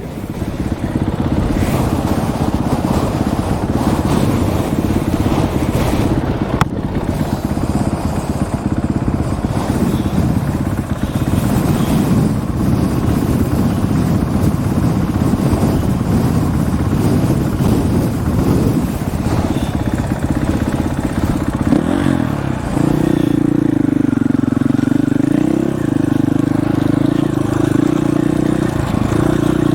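Dirt bike engine running under way, with rushing wind noise over the microphone. About two-thirds of the way in, the engine settles into a steadier, even note.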